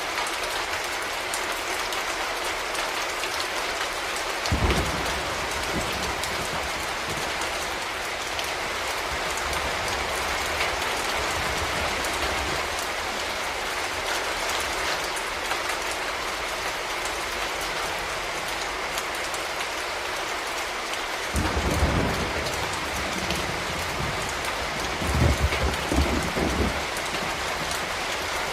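Steady rain falling, a dense even hiss. It is broken by a few short low rumbles: one about five seconds in, one a little past twenty seconds, and a cluster near the end.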